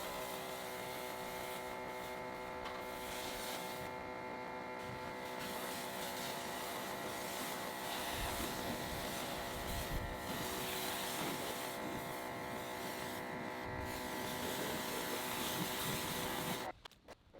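A steady buzzing hum from a small electric motor, holding one pitch, which cuts off abruptly near the end.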